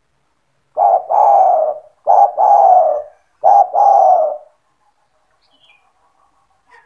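Spotted dove (tekukur) cooing: three phrases about a second apart, each a short note followed by a longer falling coo.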